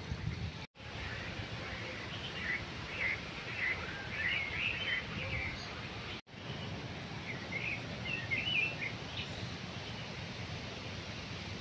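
A songbird singing in two spells of quick chirping phrases over a steady low background rumble. The sound drops out for an instant twice.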